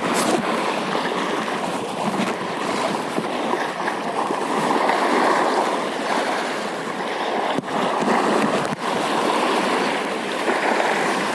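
Steady rushing of sea waves and wind.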